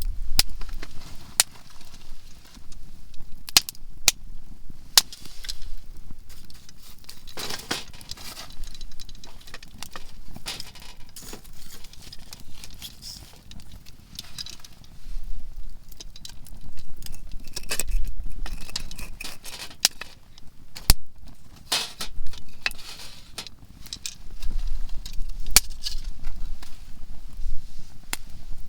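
Softwood firewood burning in a campfire, crackling steadily with frequent sharp, irregular pops as the conifer wood bursts.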